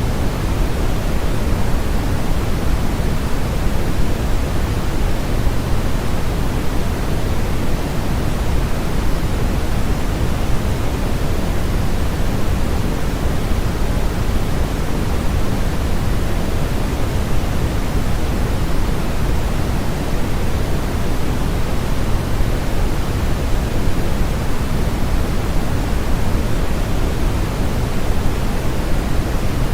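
Steady, unbroken synthetic noise, fuller in the low end than the high end, like pink noise. It is a sleep and masking noise track.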